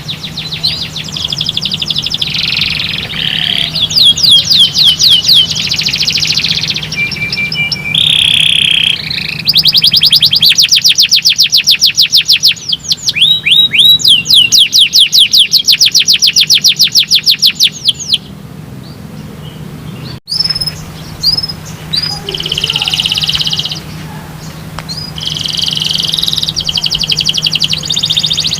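Domestic canary singing in long rapid trills of repeated downward-sweeping chirps, with short whistled notes between the rolls and a sudden brief break about two-thirds of the way through. A faint steady low hum runs underneath.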